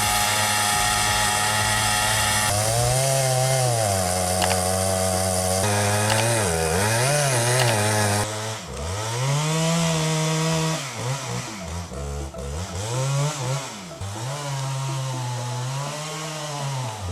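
Chainsaw engine revving up and down again and again, its pitch rising and falling every second or two as the throttle is opened and released. About eight seconds in the hiss drops away and the sound gets a little quieter.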